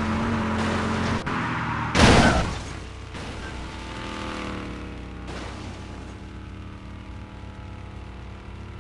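Cartoon sound effects: a car engine running, then a sudden loud boom about two seconds in that fades over a second into quieter steady tones.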